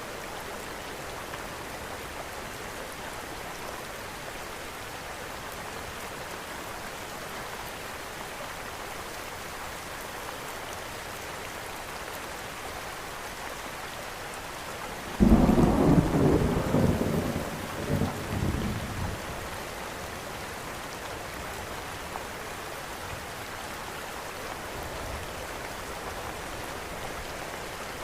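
Steady rain falling, with a single loud thunderclap about halfway through that rumbles on for a few seconds and dies away.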